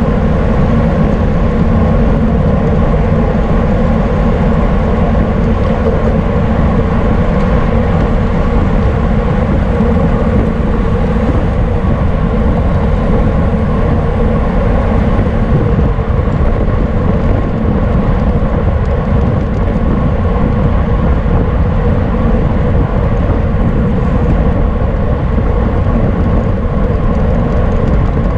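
Steady rush of wind over the microphone of a camera riding along on a racing bicycle at speed, with a low, even hum of road noise under it.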